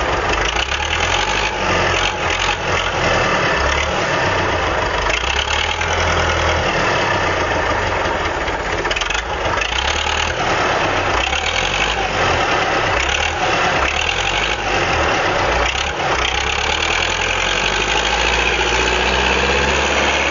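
Vehicle engines running steadily, a low uneven rumble under a loud, even rushing noise.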